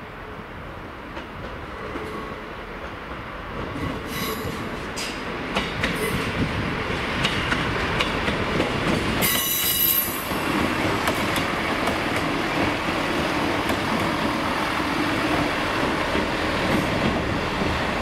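Northern class 158 diesel multiple unit pulling into the station. Its running noise builds over the first several seconds with a few clicks of wheels over rail joints, a high brake squeal about nine seconds in as it slows, then a steady rumble with a low hum as it draws to a stand.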